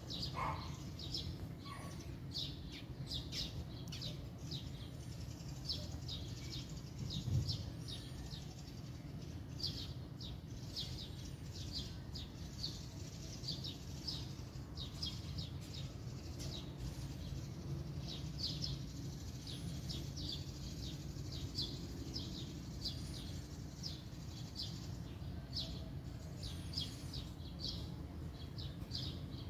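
Small birds chirping, short high chirps one or two a second, over a steady low rumble, with a dull thump about seven seconds in.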